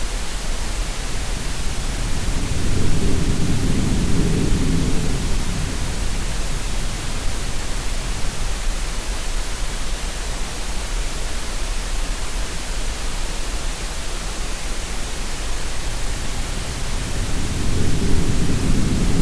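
Steady green noise hiss, with the deeper rush of sea waves swelling up twice, about three seconds in and again near the end.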